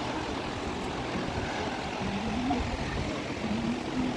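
Waterfall rushing steadily: Dassam Falls' water dropping about 144 feet, heard as an even, unbroken rushing noise.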